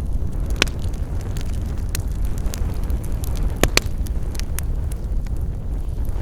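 Campfire burning with a steady low rumble, and burning wood giving off sharp crackles and pops at irregular moments. The loudest are a snap just under a second in and a quick double pop a little under four seconds in.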